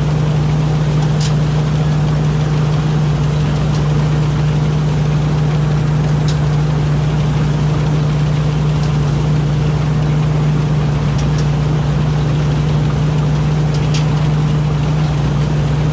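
Rice combine harvester engine running at a steady, unchanging drone, with a few faint ticks.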